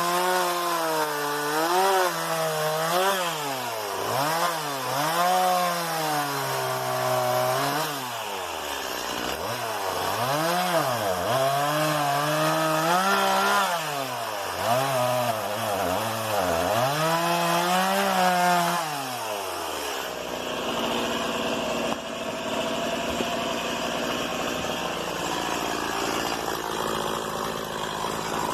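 Stihl MS 170 two-stroke chainsaw cutting wood, its engine speed rising and falling again and again as the chain bites. About two-thirds of the way through it drops back to a steady idle.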